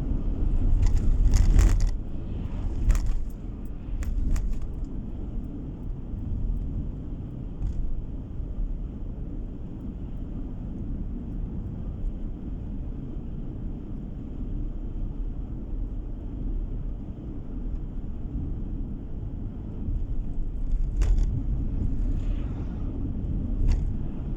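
A car's steady low road rumble from tyres and engine while driving, heard from inside the vehicle. A few sharp knocks come in the first few seconds and again twice near the end.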